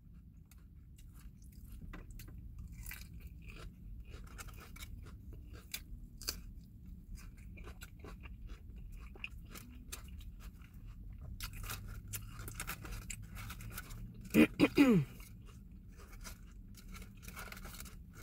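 Close-up chewing and crunching of salad greens in the mouth, a steady run of small wet clicks and crackles. Late on, a short voiced hum, twice and falling in pitch, is the loudest sound.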